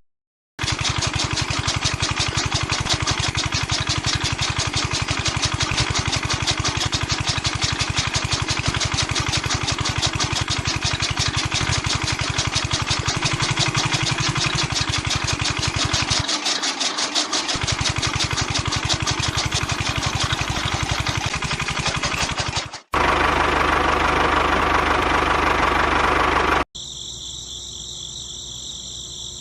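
Small motor-driven machine running with a fast, even rattle. About 23 s in the sound cuts abruptly to a louder, smoother running noise. Near the end it drops to a fainter, high-pitched steady sound.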